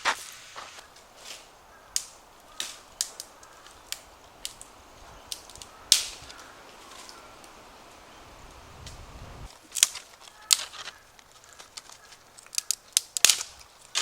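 Wood campfire crackling, with irregular sharp pops and snaps spaced a second or more apart, coming in a quicker cluster near the end.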